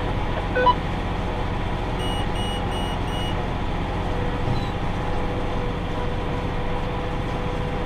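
Tractor engine running steadily under load, heard as a constant hum. About two seconds in, four short electronic beeps sound in quick succession.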